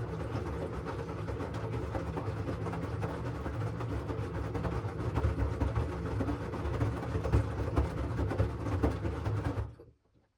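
LG washing machine drum turning during the wash, with the laundry tumbling inside, a steady rumble with fine knocking that stops abruptly near the end as the drum pauses.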